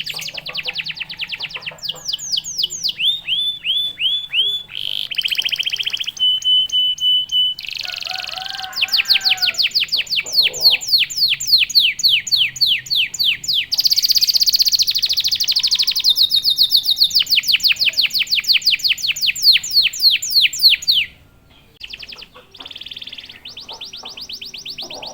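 Domestic canary singing a loud, fast song made of rolling trills: long runs of quick, repeated down-sweeping notes, changing note type every few seconds, with a brief break about 21 seconds in.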